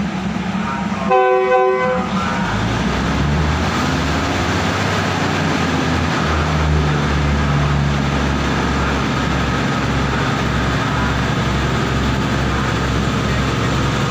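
Diesel railcar train sounds a short horn blast, then its engines rumble with an even beat as it pulls out of the station.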